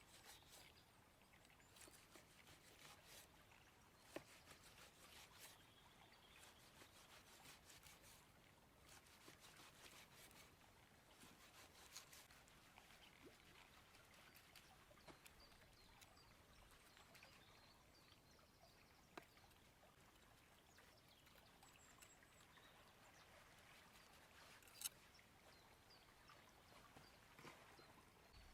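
Near silence: faint scattered clicks and crackles over a soft outdoor background, with a few sharper ticks standing out.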